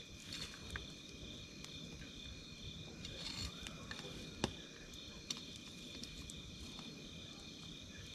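Wood campfire crackling, with a few sharp pops, the loudest about four and a half seconds in. Night insects chirp under it in a steady, high, pulsing trill.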